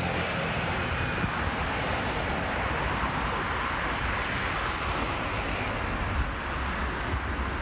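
Steady road traffic noise: a continuous wash of passing vehicles with no single one standing out.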